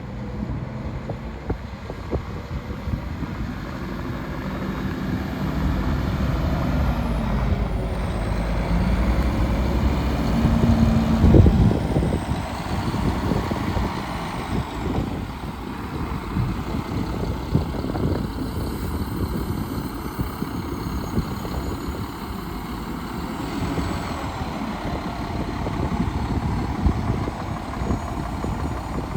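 Diesel engine of a 2011 Mack MRU613 front-load garbage truck running. Its note rises from about six seconds in, there is one loud low thump just after eleven seconds, and then it settles back to steady running.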